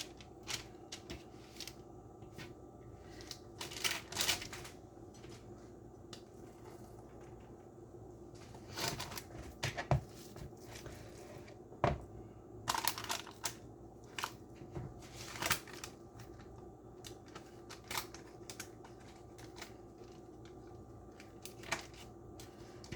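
Hands working at a kitchen counter: scattered soft taps, clicks and rustles of food being handled and rolled in wrappers, over a steady low hum.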